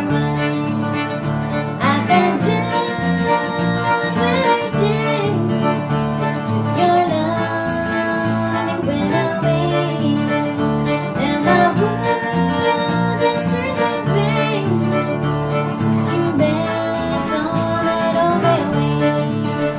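A string band playing a bluegrass-style tune, with a fiddle carrying the melody over strummed acoustic guitar and a steady bass line.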